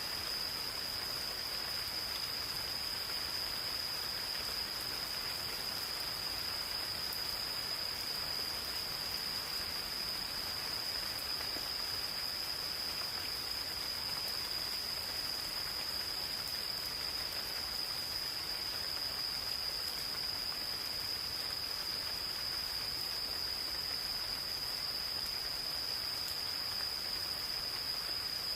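Gentle rain falling on the forest, an even patter of drops, under one insect's continuous high-pitched trill that holds a steady pitch without a break.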